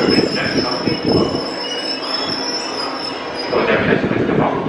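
A JR West electric commuter train rolling slowly alongside the platform, its brakes or wheels giving a steady high-pitched squeal as it slows, over an uneven rumble and knocking from the wheels on the track.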